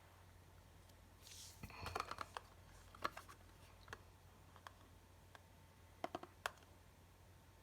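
Scattered light clicks and taps of small hard objects being handled, in a cluster about two seconds in and again near the end, with a brief rustle just before the first cluster, over a faint steady low hum.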